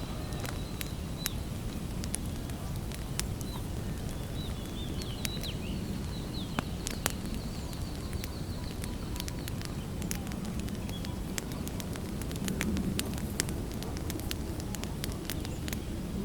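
Wood campfire crackling, with frequent sharp pops and snaps over a steady low rumble of burning. The pops come more often in the second half. A bird chirps faintly in the first half.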